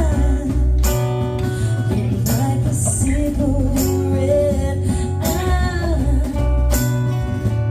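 Live band music: guitar over bass and a steady beat, with a bending melodic line riding on top.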